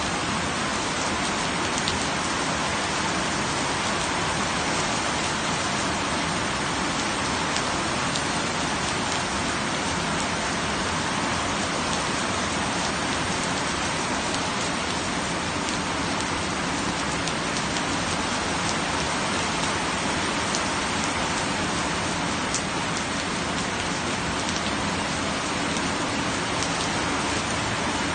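Steady rain falling and hitting surfaces, an even hiss with scattered faint drop ticks.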